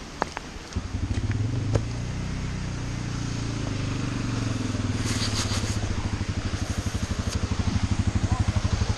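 An off-road vehicle's engine comes in about a second in and keeps running at low, steady revs, growing gradually louder. A few sharp clicks come just before it.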